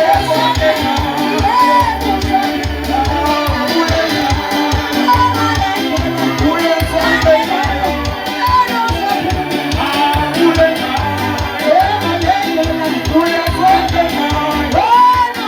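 Live church praise and worship music: voices singing together over keyboard, with a steady bass line and a fast, busy beat.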